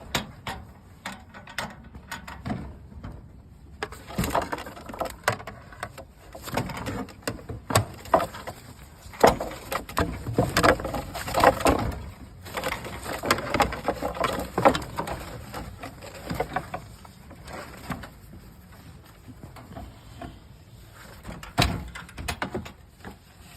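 Knocks, rattles and scuffling as a person grabs at a hawk inside a pigeon coop, busiest from about four seconds in until about sixteen seconds in.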